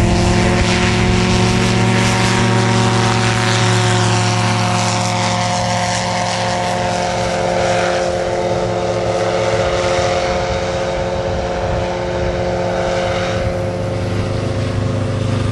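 Aventura II amphibious light aircraft's engine and propeller running loudly at high power, its pitch holding nearly steady after climbing just before.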